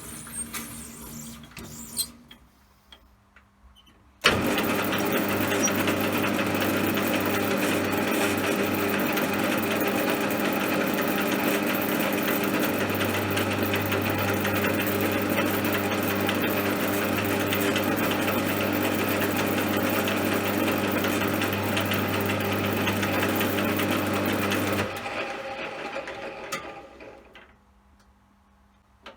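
CJM360 benchtop lathe's motor and spindle switched on, with a sudden start about four seconds in. It runs with a steady hum and whine for about twenty seconds, deepening slightly partway through. It is then switched off and spins down over a couple of seconds.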